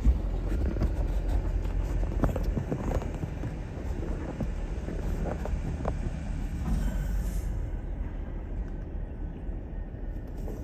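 Rear-loading garbage truck's diesel engine running with a steady low rumble while its packer crushes a load of bulk trash, with scattered cracks and knocks from the debris being compacted.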